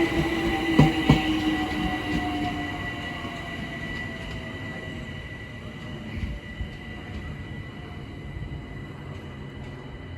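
London Overground Class 378 Electrostar electric train slowing as it arrives. Its wheels click over rail joints a few times in the first second or so, and its motor whine slides gently down in pitch and fades as the train slows. A steady high tone runs on underneath.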